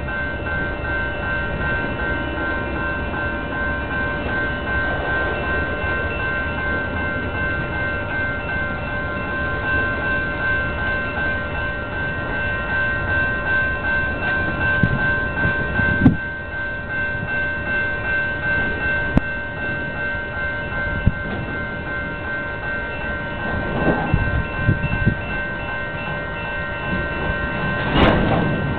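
Iowa Interstate manifest freight train's boxcars rolling past on the rails, with steady high-pitched ringing tones over the wheel noise. There are occasional clunks, the loudest pair near the end.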